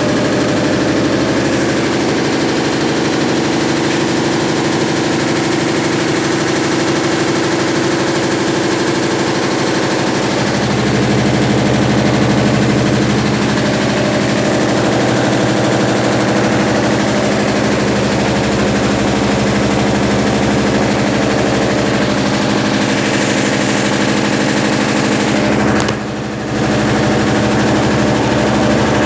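Consul Facilite 10 kg (CWC10) washing machine running during its rinse and spin cycle: a steady mechanical hum whose pitch shifts about ten seconds in, dipping briefly about three seconds before the end.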